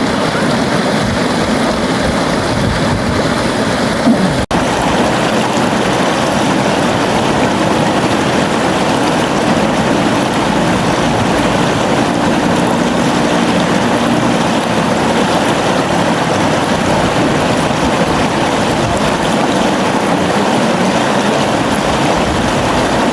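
Steady rushing of a flowing river, an even wash of water noise with no change in level, broken once by a momentary dropout about four and a half seconds in.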